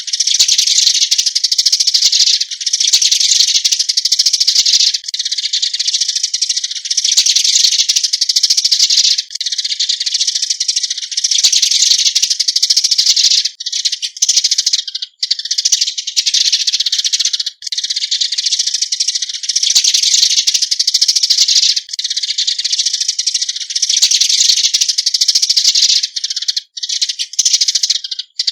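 Eurasian tree sparrows giving their flock call: a dense, high-pitched chirping chatter with a few short breaks.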